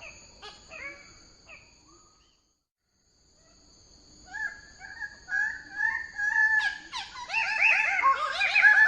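Bird-of-paradise calling: quick runs of repeated, harmonic notes. They fade away, stop completely for about a second and a half, then start again near the middle and grow louder and busier toward the end, over a steady high-pitched whine.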